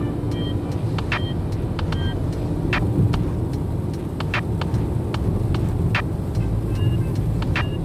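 Wood burning in a campfire: irregular sharp pops and crackles over a steady low rumble, some pops with a brief high hiss or whistle.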